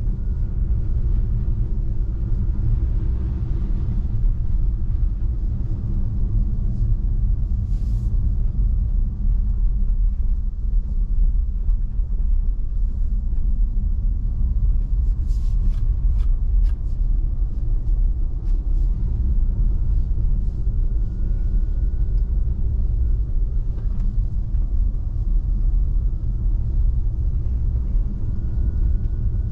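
Steady low rumble of a Tesla Model 3's tyres on a snow-covered road, heard inside the electric car's cabin, with a few faint clicks about eight seconds in and again around the middle.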